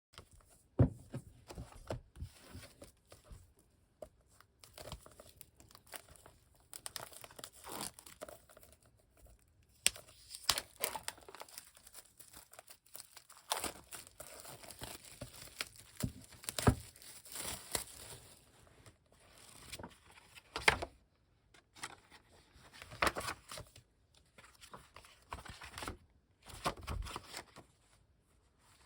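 Packaging being torn open and crinkled by hand, with irregular rustling and sharp crackles.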